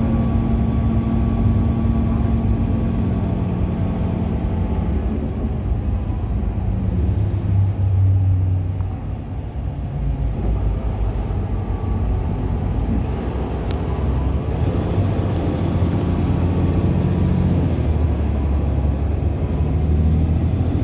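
Bus engine and road noise heard from inside the bus cabin, the engine note shifting pitch several times with a brief drop in loudness about halfway through.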